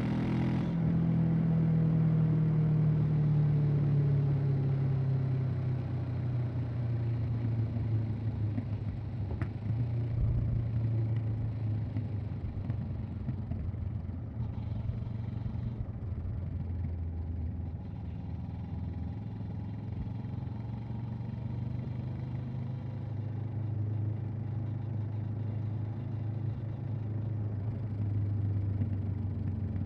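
Honda CB500X's parallel-twin engine and exhaust while riding. The engine note falls over the first few seconds as the revs drop, then holds fairly steady at cruising revs with small changes, rising a little near the end.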